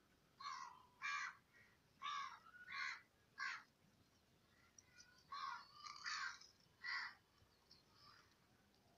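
A bird calling with a string of short, harsh, caw-like calls, about nine in all in uneven groups with a pause midway.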